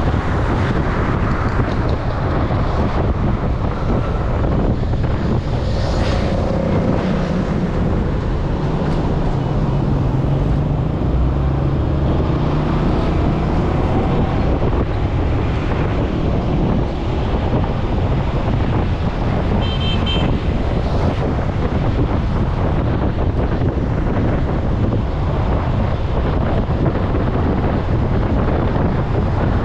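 A vehicle moving through traffic, with steady wind rushing over the microphone and an engine drone that rises and falls in pitch. A brief high beep sounds about twenty seconds in.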